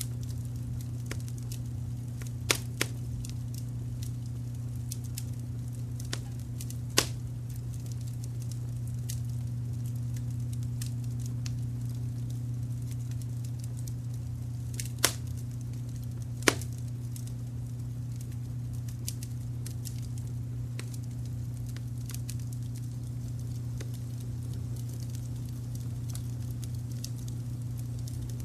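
Wood fire crackling with scattered small clicks and a handful of sharp, louder pops, over a steady low rumble of brown noise.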